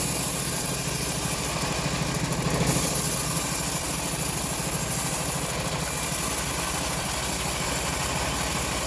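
Engine of a locally assembled bandsaw mill running steadily with an even rhythm.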